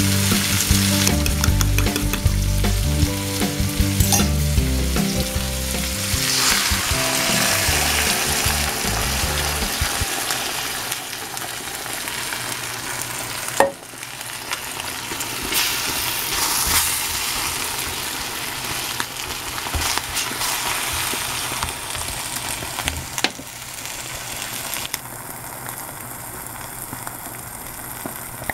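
Sliced ridge gourd (Chinese okra) and beaten egg sizzling steadily in hot oil in a wok while being stirred. There is a single sharp knock about fourteen seconds in, and the sizzle grows fainter near the end. Background music with low notes plays over roughly the first ten seconds.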